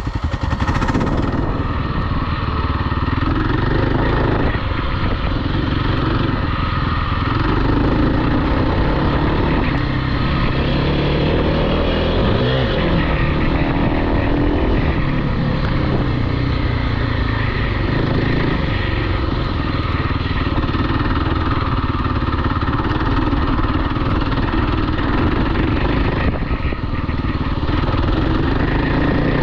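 Small off-road vehicle engine running under way. The engine pitch rises and falls about twelve seconds in.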